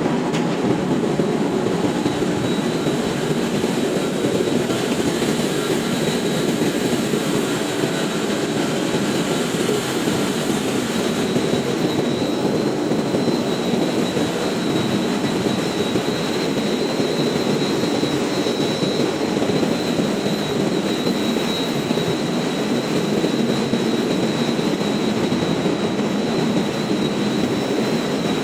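Ship's engine room machinery running: a steady, loud, even roar, with a thin high whine joining it a few seconds in.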